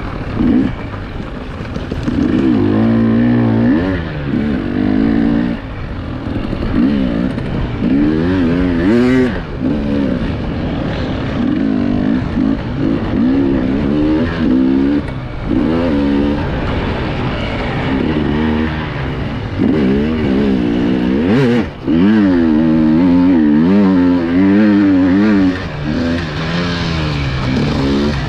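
Enduro motorcycle engine heard from the rider's onboard camera, revving up and down over and over as the throttle is opened and closed. Two sharp knocks cut through along the way.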